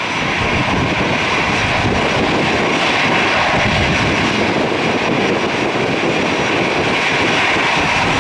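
Jet airliner engines, a loud steady rush of noise that holds even throughout.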